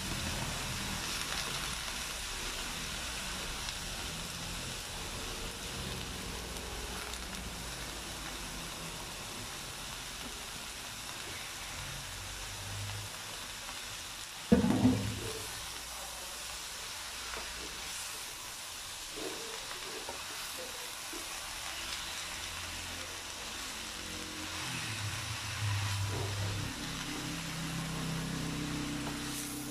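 Shredded young jackfruit sizzling in a frying pan as it is stirred with a spatula, a steady frying hiss. A single sharp knock, the loudest sound, about halfway through.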